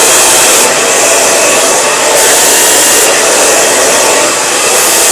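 Handheld blow dryer running steadily on the hair, its upper hiss rising and falling every second or so as the nozzle moves along the hair.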